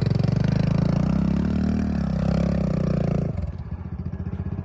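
Kawasaki KLX110R dirt bike's small four-stroke single-cylinder engine revving under throttle on a hill climb, its pitch rising and then holding. About three seconds in the throttle shuts and the engine drops to a quieter, lower idle.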